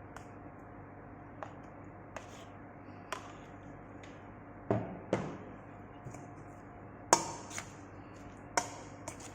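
A spoon knocking and clinking against a mixing bowl at irregular intervals as a chicken and mayonnaise filling is stirred, the loudest knock about seven seconds in.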